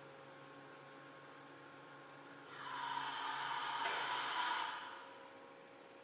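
Atlet four-way electric reach truck: a steady electric hum, then a loud hydraulic hiss that swells about two and a half seconds in, lasts about two and a half seconds and dies away.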